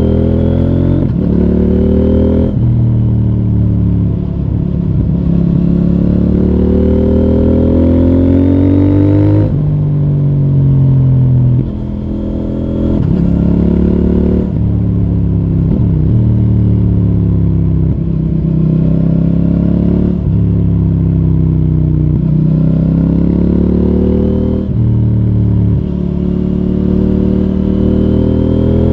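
CFMoto 800NK Advanced motorcycle's parallel-twin engine through its stock exhaust, accelerating hard through the gears. The pitch climbs and then drops at each gear change, over and over.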